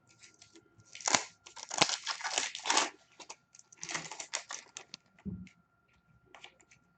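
Hockey card pack wrappers and packaging being torn open and crinkled: a spell of crackling tearing about a second in, and another around four seconds in.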